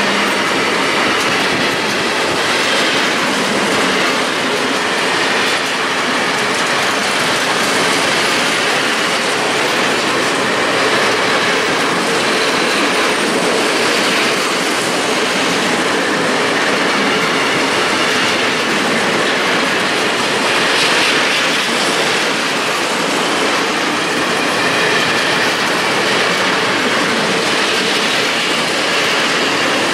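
A long freight train of open coal wagons passing close by, with a steady loud rolling noise of steel wheels on the rails.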